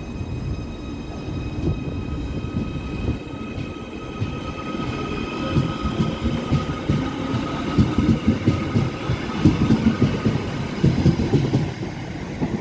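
Merseyrail Class 777 electric train pulling away from the platform: a steady electric whine over the rumble of wheels on the track. The whine fades about halfway through while the wheel rumble becomes heavier and more uneven toward the end.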